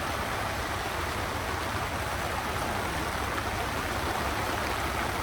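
Heavy rain pouring down in a steady downpour, a constant even rush of rainfall.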